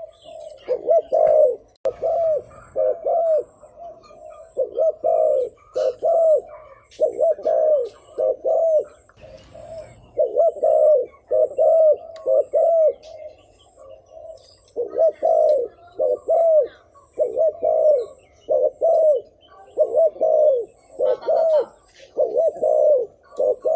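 A spotted dove cooing over and over, short arched coos in groups of two or three with brief pauses between groups. This is the lure call of a tame decoy dove, used to draw wild doves in.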